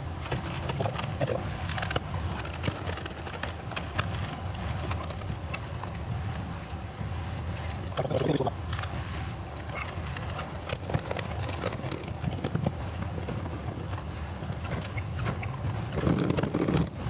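Plastic seat trim being pried and pulled off: scattered clicks and knocks, with louder clusters about halfway through and near the end, over a steady low hum.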